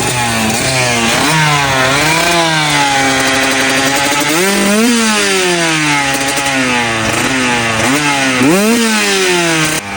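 Dirt bike engine revved up and down over and over, with quick blips and then several long pulls to high RPM, cutting off just before the end.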